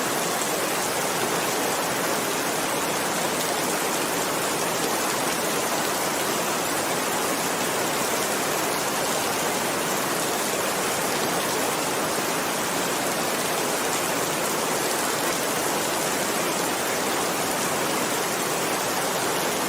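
Steady, dense rainfall: an even hiss with no single drops, thunder or fire crackles standing out.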